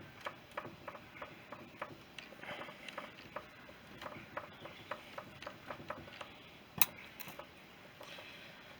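Faint, light metallic ticks at about three a second, with one sharper click about seven seconds in, from hand tools working a tight-fitting dowel out of a BSA B31 engine's timing chest.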